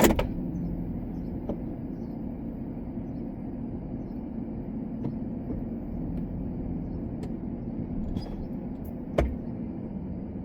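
Truck engine running steadily at low speed, heard from inside the cab, with a sharp clunk right at the start and a thump about nine seconds in.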